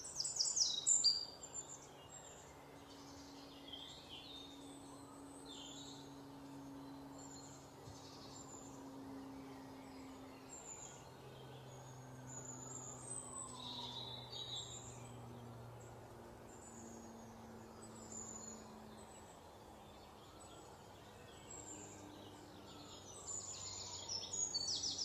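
Small birds chirping and twittering, short high calls scattered throughout, with a louder rapid burst of chirps about a second in and again near the end. A faint steady low hum underneath.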